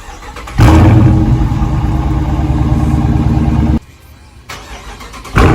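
Dodge Charger exhaust with the mid-muffler deleted, the engine running loud and steady from about half a second in. It cuts off suddenly after about three seconds, then comes back just before the end.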